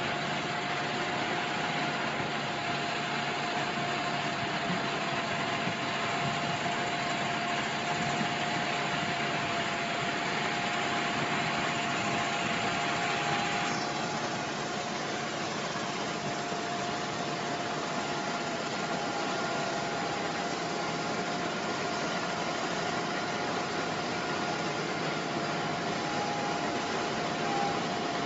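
Engine running steadily with a constant whine over even mechanical noise; the sound changes abruptly about 14 seconds in.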